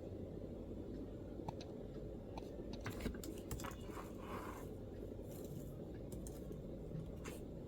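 Soft keystrokes on a MacBook keyboard, typed irregularly, with a short flurry of clicks a few seconds in, over steady low background noise.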